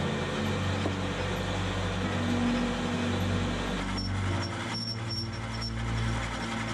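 Steady machine drone: a low hum under a rushing noise. The rushing part thins about four seconds in, leaving the hum.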